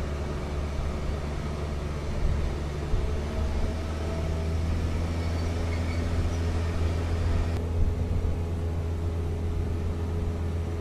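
Heavy vehicle engine running steadily: a deep, even drone.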